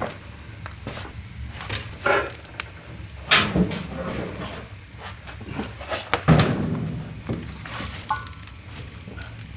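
Split oak firewood logs knocked and dropped into a wood-fired heating firebox: several separate wooden thunks and clatters, loudest about three and a half and six seconds in, over a steady low hum.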